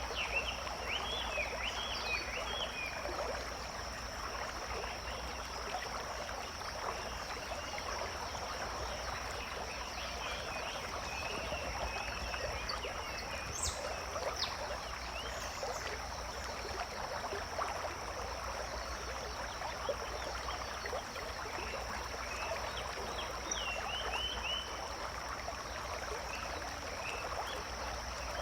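Forest ambience: running water trickling, a steady high-pitched drone, and clusters of short chirping animal calls near the start and again about three-quarters of the way through.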